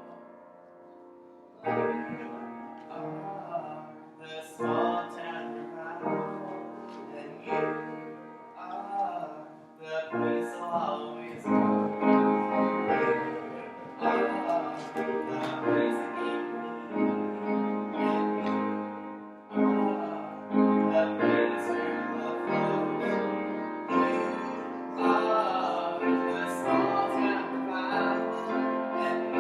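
Piano music: chords struck about every second and left to ring, after a brief quiet moment at the start.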